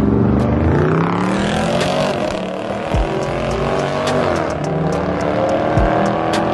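Car engines revving hard and accelerating, their pitch rising and falling, with sharp cracks and a few low thumps.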